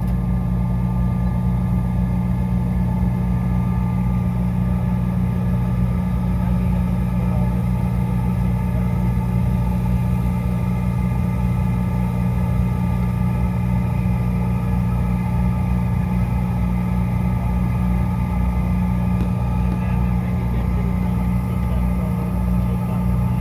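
Steady drone of a CRJ900 regional jet heard from inside the cabin: a constant low hum with a few fixed higher tones above it, unchanging throughout with no spooling rise.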